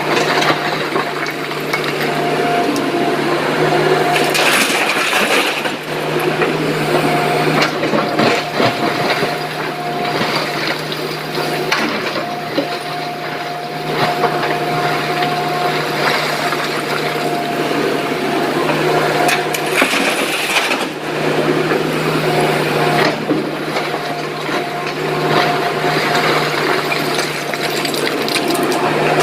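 SANY excavator's diesel engine running steadily under a dense, uneven clatter of rock and stone, as from the bucket digging and loading a tipper truck.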